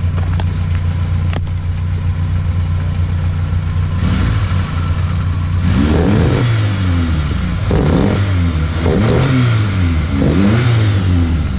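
Off-road vehicle's engine running steadily, with two sharp knocks near the start. From about four seconds in it revs up and down again and again, about once every second and a half.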